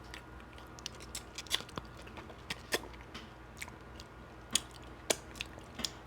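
A person chewing and biting smoked beef rib meat close to the microphone: irregular wet mouth smacks and clicks, two louder ones near the end.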